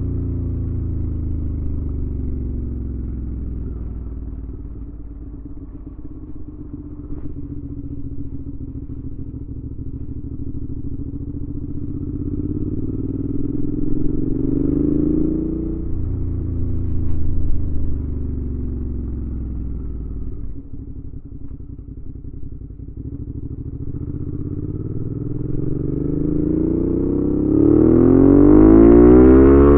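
2019 Suzuki V-Strom 650's V-twin engine through a Delkevic aftermarket exhaust while riding. The engine note sinks as the bike slows, rises under throttle about halfway through and drops suddenly. Near the end it climbs hardest and loudest, then drops abruptly and picks up again.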